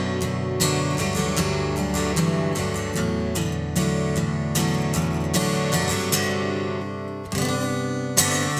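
Acoustic guitar strummed in a steady rhythm during an instrumental break between sung lines. The strumming dips briefly a little after seven seconds, and a sharp strum follows near the end.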